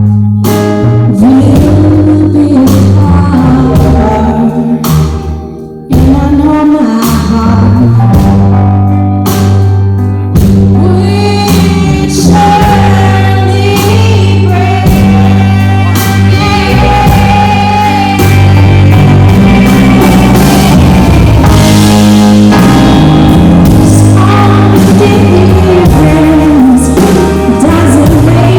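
A rock band playing live with a lead singer: drums, bass and guitar under the vocal line. The band drops back briefly about five seconds in, then comes back in at full level.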